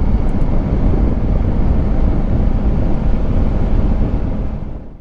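Steady riding noise from a Honda Africa Twin Adventure Sports parallel-twin motorcycle, wind rush over the microphone mixed with the engine running at a steady speed, fading out near the end.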